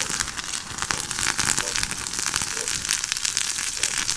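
Chopped tomatoes sizzling loudly in hot olive oil in a pan over a campfire, a steady hiss full of fine crackling spatter; the oil is a little too hot.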